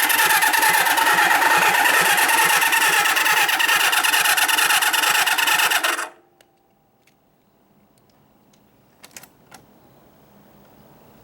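Kawasaki Z500 (KZ500B) air-cooled inline-four turned over on its electric starter, cranking steadily without catching, until it stops suddenly about six seconds in. A few light clicks follow.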